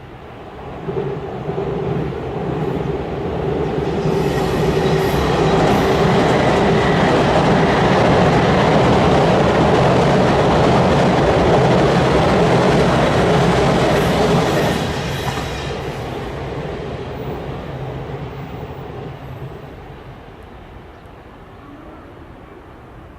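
A train crossing a railway bridge: the rumble of wheels on the track builds about a second in, holds loud for about ten seconds with a steady hum underneath, then fades as the train moves away.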